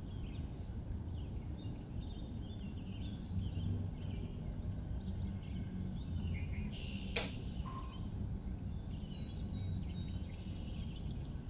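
Oil frying gently in a pan on a very low flame, with faint scattered crackling. One sharp knock comes about seven seconds in.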